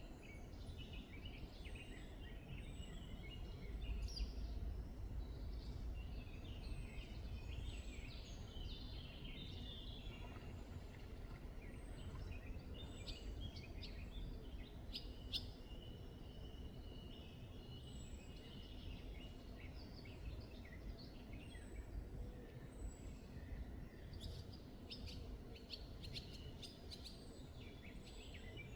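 Several songbirds singing at once: chirps and trills, with one thin high note repeated about once a second, over a steady low rumble.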